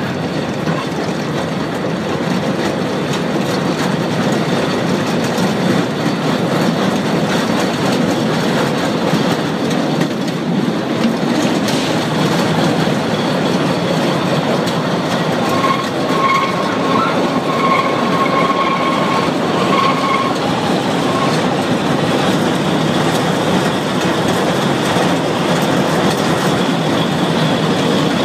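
Electric mountain railcar running on the Altstätten–Gais line, heard from the driver's cab: a steady rumble of wheels on rail and running gear. About halfway through, a high wheel squeal comes and goes for several seconds as the train takes a curve.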